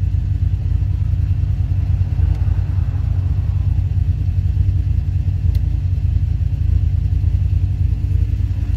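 Fiat Punto's engine idling steadily, heard from inside the cabin, with both alternators charging at a raised voltage of about 15 V.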